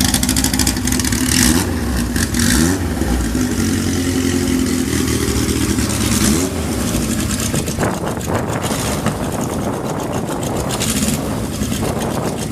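Kawasaki Z1000ST air-cooled inline-four motorcycle engine running, revved up twice in the first half, then going on with a rougher, less even sound.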